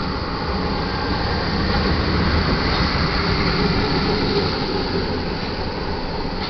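Freight cars of a passing manifest train rolling by: a steady rumble and rattle of steel wheels on rail.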